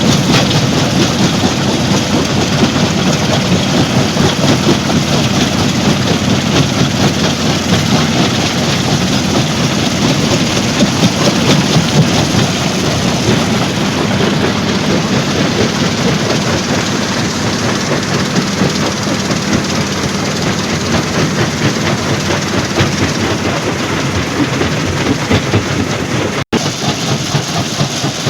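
Stone crusher plant machinery running, a loud, dense and continuous rattle of rock being crushed and moved, with a brief break near the end.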